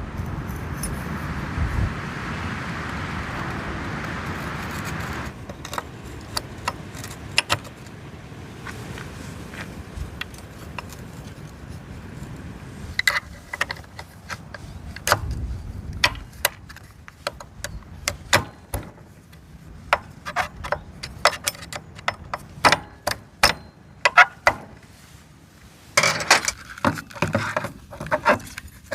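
A steady hiss for about five seconds, then a long run of light metallic clinks and taps from tools and small metal parts being handled, growing busier near the end.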